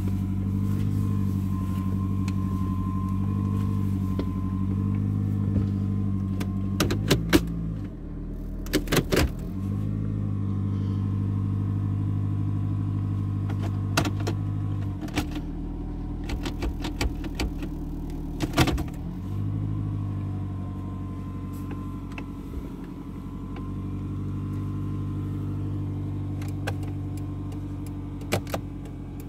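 A 2011 Toyota Camry LE's engine idling steadily just after a cold start, running at a raised idle with the coolant still cold, heard from inside the cabin. The hum drops away and comes back a few times, with clusters of sharp clicks and knocks about a quarter of the way in, again past halfway, and once more near the end.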